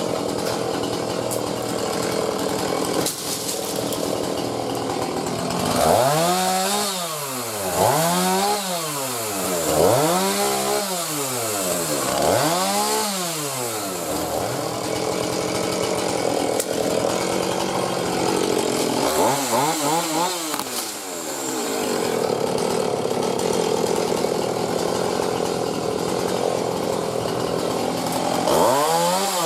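Chainsaw cutting wood. It runs steadily, and its engine pitch rises and falls four times in quick succession about every two seconds, then again twice later.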